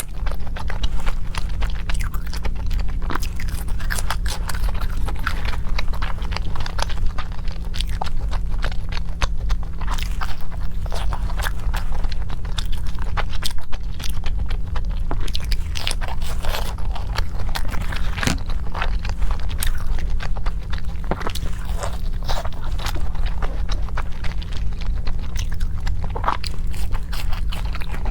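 Close-miked eating: biting and chewing food, with many small wet clicks and crunches.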